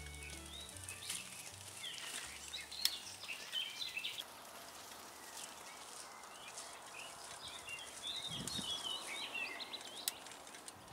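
Songbirds singing in two spells of quick chirping, over a steady outdoor hiss, with a couple of sharp clicks. The last low notes of background music die out about two seconds in.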